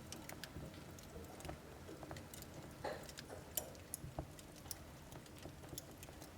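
Wood fire burning in a household wood stove: soft, irregular crackling and popping of burning logs over a low steady rumble of the flames, with one sharper pop about three and a half seconds in.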